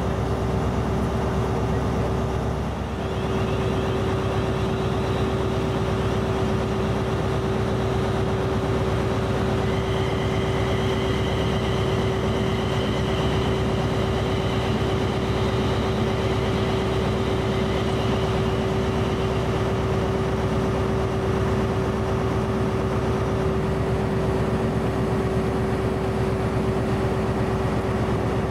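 A train standing at the platform with its machinery running steadily, giving a constant hum with a strong single note. A fainter high whine comes in partway through and fades again.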